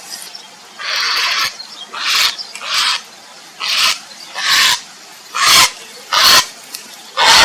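Grey heron giving a series of harsh, rasping croaks, about one every second, the first a little longer than the rest: calls the uploader gives as a heron calling for a mate.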